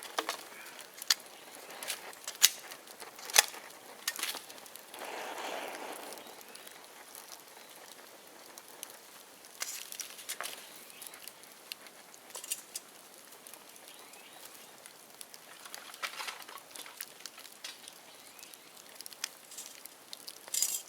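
Bonfire of dead bamboo crackling, with sharp irregular pops and a brief rushing swell about five seconds in.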